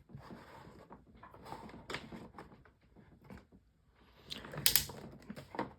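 Light plastic-and-metal table fan being handled and tilted on its stand: scattered small clicks, knocks and rattles, with a louder run of clicks near the end.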